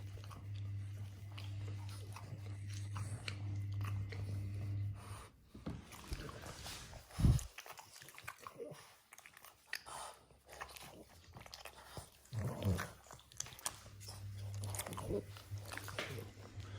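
A French bulldog chewing and biting with crunching, scattered clicks and crackles, over a low steady hum that drops out about five seconds in and returns near the end; one low thump about seven seconds in is the loudest sound.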